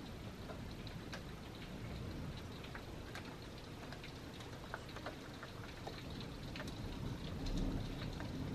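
Heavy monsoon rain falling steadily, with scattered sharp ticks of individual drops hitting close by. A low rumble swells near the end.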